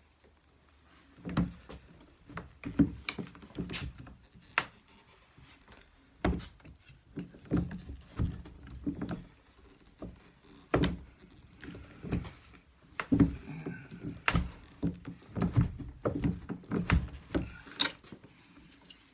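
Hand-cranked Durston rolling mill knocking and clunking as a 14k gold wire is run through its rollers again and again to flatten it into a strip. Irregular knocks and dull thuds come in clusters from about a second in until near the end.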